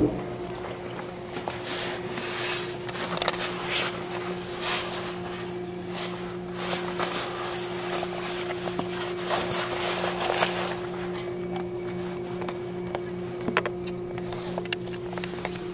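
Cabin of an E657-series limited express train running, with a steady low hum and a mix of rumble, clicks and rattles from the wheels and the car body.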